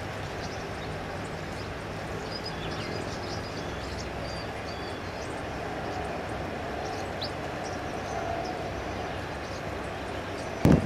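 Steady low background rumble with scattered faint, short, high bird chirps over it; a sharp click near the end.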